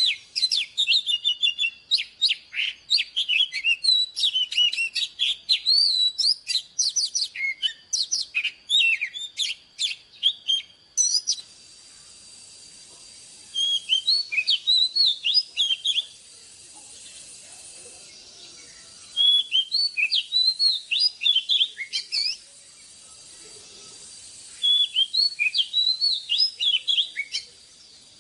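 Oriental magpie-robin singing: rapid, varied whistled and chirping phrases, unbroken for about the first eleven seconds, then three shorter bursts of song with pauses between them over a faint steady hiss.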